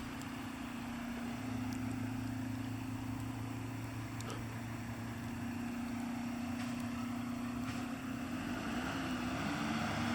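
A motor engine running steadily with a hum, its pitch wavering near the end, over a steady hiss.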